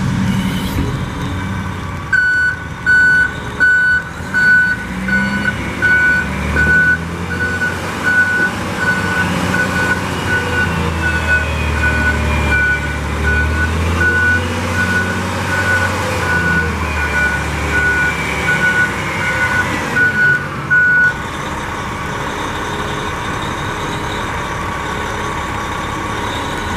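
Terex TA40 articulated dump truck's diesel engine running while its reversing alarm beeps steadily, about one and a half beeps a second, as the truck backs up. The engine swells under load midway, and near the end the beeping stops, leaving the engine running steadily.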